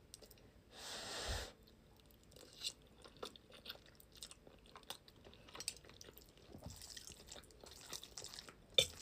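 Close-up mouth sounds of eating: a brief rushing noise about a second in, then chewing with many small wet clicks and light crunches.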